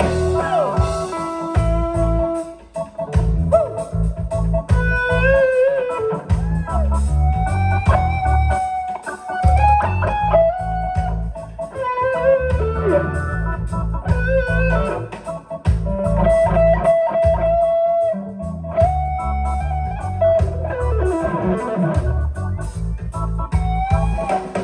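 Live band's instrumental break in a reggae song: an electric guitar solos with bent notes over a bass guitar and drums.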